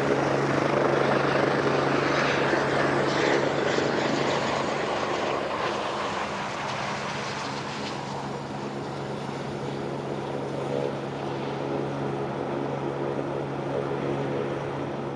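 Aircraft engine noise: a broad roar over a steady low hum, slowly fading.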